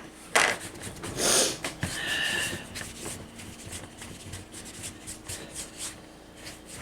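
A person breathing close to the microphone: a quick sniff and then a loud breath in the first two seconds, a brief wheezy tone, then only faint clicks and rustles.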